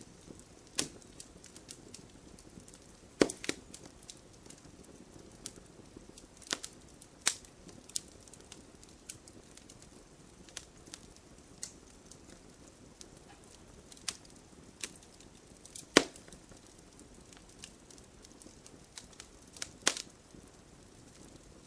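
Wood fire crackling: irregular sharp pops and snaps over a faint steady hiss, the loudest pops about 3, 16 and 20 seconds in.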